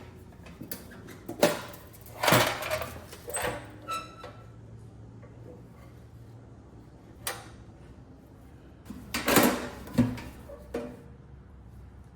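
Intermittent knocks, clatter and short scrapes of hard objects being handled, with a quieter stretch in the middle.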